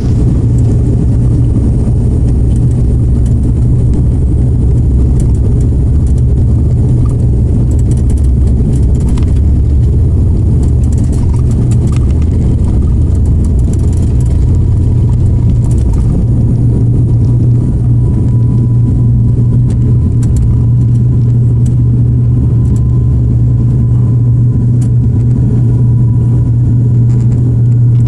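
Aircraft engines running at takeoff power: a loud, steady drone with a strong low hum and rumble.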